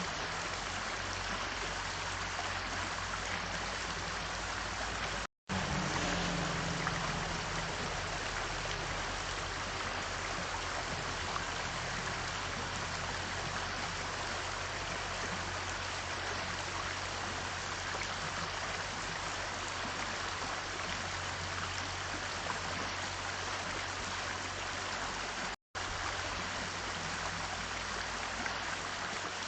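Steady rushing noise like running water over a low hum, cutting out completely for a moment twice.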